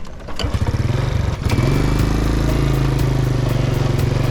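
Small motorbike engine starting about half a second in, picking up briefly, then idling steadily.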